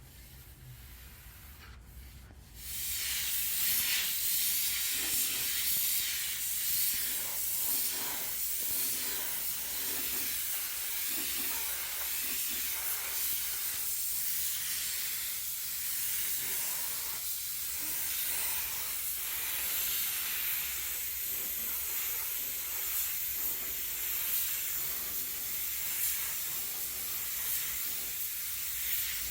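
Paint spray gun spraying automotive clear coat: a steady hiss that starts about two and a half seconds in and carries on with small rises and dips.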